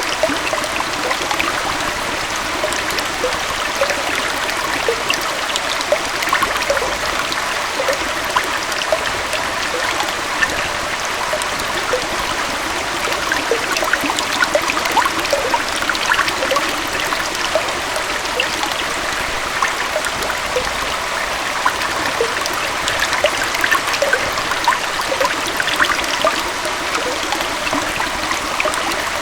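Gentle waterfall on a stream: water flowing and splashing steadily, with many small bubbling plinks all through.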